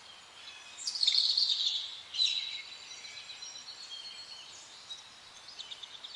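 Wild songbirds singing and chirping, with a loud run of high chirps about a second in, another burst near two seconds, then fainter scattered calls.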